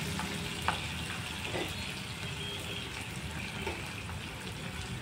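Sliced onions and capsicum frying in hot oil in a kadai, a steady sizzle from the bubbling oil, with a few short clicks in the first two seconds and one more later.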